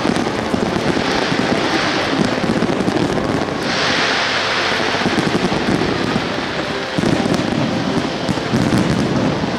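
Fireworks going off in a dense stream of rapid pops. A hissing rush comes in about four seconds in.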